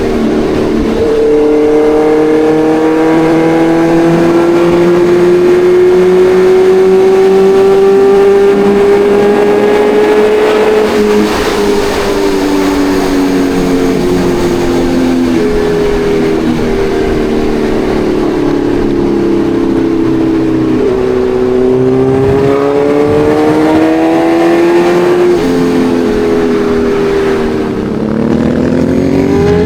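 Kawasaki Ninja 1100SX's inline-four engine under way. Its note climbs slowly for about ten seconds, then dips and climbs again several times, and rises quickly near the end.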